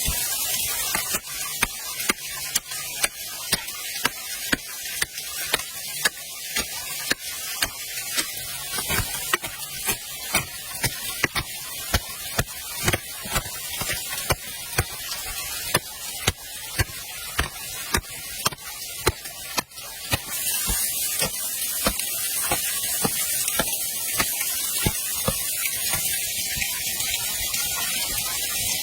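Steady rushing of a waterfall, with a run of sharp knocks, about two a second, that stops about two-thirds of the way through.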